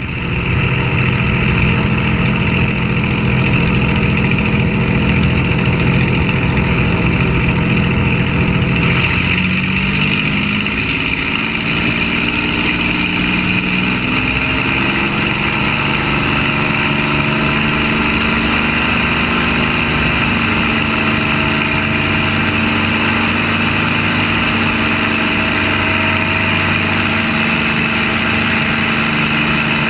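P-51D Mustang's Packard Merlin V-1650-7 V-12 piston engine running at idle, steady and loud; its pitch rises a little about nine seconds in, then holds steady.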